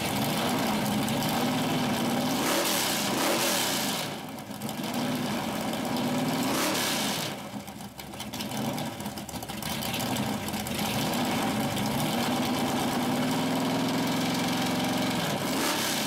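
Hemi V8 of a 1963 Dodge 330 being revved again and again, its pitch rising and falling, easing off briefly twice before climbing again.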